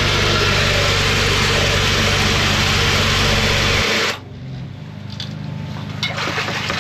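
Engine-driven mud sucker running with its suction roaring steadily, then shut off abruptly about four seconds in. A quieter engine hum and a few knocks remain.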